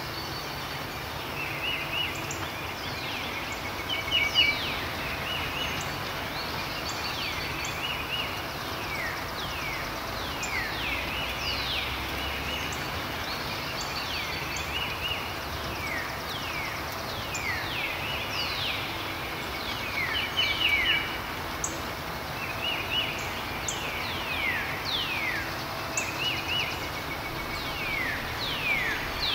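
Birds singing over a steady background hiss: many quick falling whistles and short chirping trills, repeating throughout.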